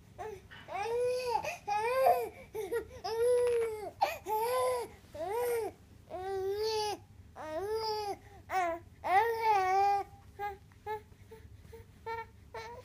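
Newborn baby fussing: a string of short, pitched cries, each rising and falling in pitch, about one a second, giving way to shorter, fainter squeaks after about ten seconds.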